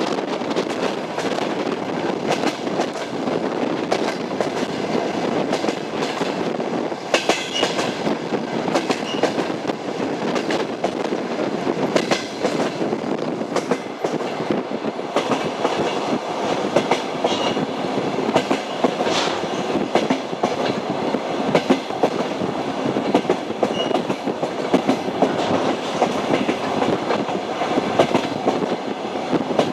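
A moving passenger train: steady rumble of the railway carriage with the clatter of its wheels over the rail joints, sharp clicks coming every few seconds.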